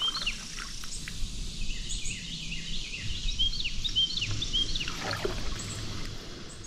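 A songbird singing runs of short, quick, high chirps, twice, over a faint steady low hum of outdoor background noise.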